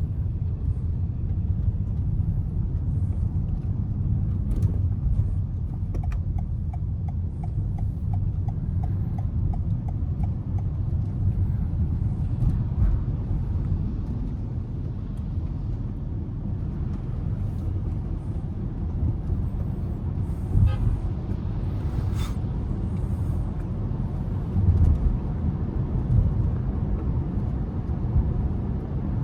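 Car driving in city traffic: steady low road and engine noise, with a few seconds of rapid, evenly spaced ticking about six seconds in and a few short knocks.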